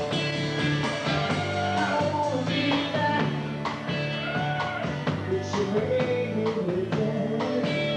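A rock band playing: guitars over a bass line, with drums keeping a steady beat.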